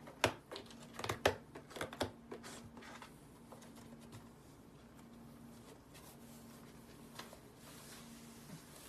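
A quick run of light taps, clicks and rustles, then only an odd tick, over a steady low electrical hum.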